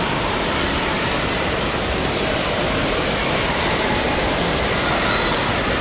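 Steady rush of falling and splashing water with a reverberant background din from an indoor water park.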